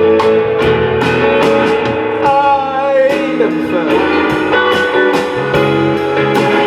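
Live band music between sung lines: guitar over a drum kit, with cymbal strikes about twice a second.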